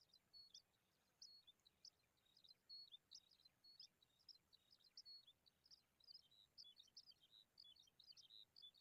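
Faint, rapid high-pitched chirping of small birds, several short chirps a second, getting busier near the end.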